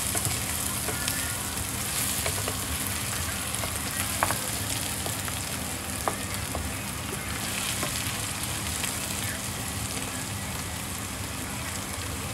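Food sizzling in a frying pan: a steady hiss with scattered pops and crackles.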